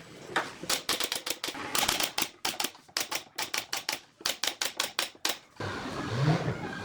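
A fast, uneven run of sharp clicks or taps, several a second with short gaps, stopping about five and a half seconds in. A lower sound with a rising pitch follows near the end.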